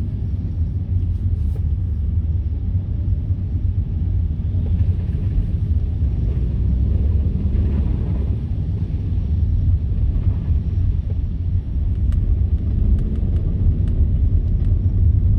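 Steady low rumble of a car's engine and tyres heard from inside the cabin while driving. A few faint rattling ticks come in near the end.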